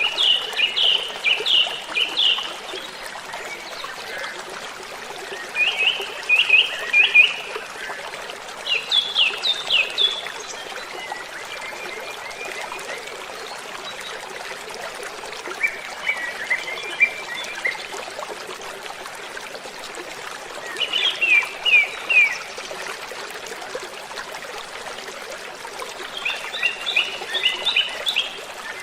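Steady hiss of flowing water, with a bird singing short phrases of quick falling notes, about seven phrases a few seconds apart.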